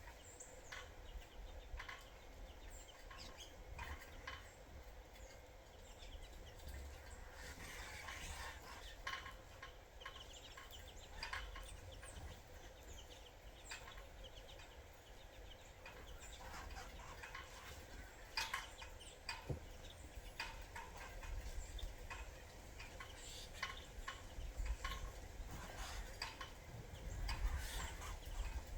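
Birds at a sunflower-seed feeder: scattered short chirps and clicks, a few louder ones late on, over a low steady rumble.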